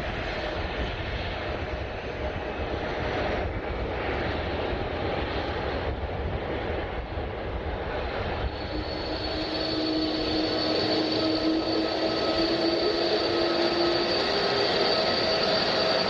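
Jet airliner engines at an airport: a steady roar with rumble, then about halfway through a high engine whine with several held tones comes in and the sound grows a little louder.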